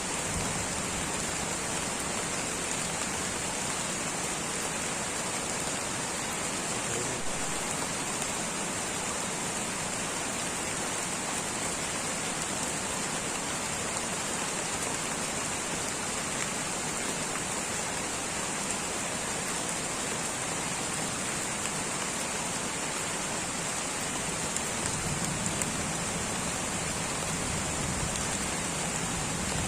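Light rain falling steadily, an even hiss of many drops, with a few slightly louder single drops near the end.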